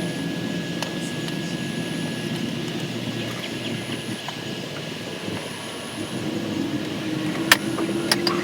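An engine running steadily with a droning hum, with a couple of sharp clicks near the end.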